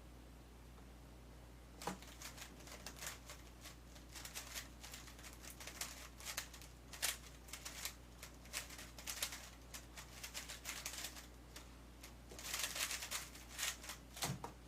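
3x3 speed cube being solved at speed: rapid, dense clicking of the layers turning, starting with a sharp click about two seconds in and ending with a dull thump near the end as the solve stops.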